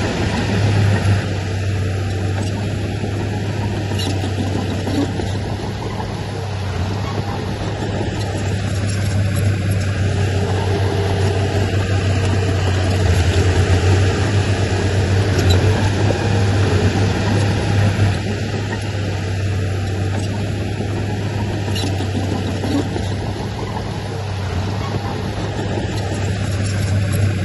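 Heavy diesel engine of an earthmoving machine running steadily under work, a deep continuous drone that swells and eases slightly.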